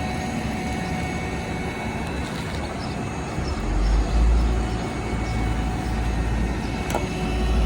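Heavy diesel paving machinery running with a steady drone; a deep low rumble swells up about halfway through, and a single click sounds near the end.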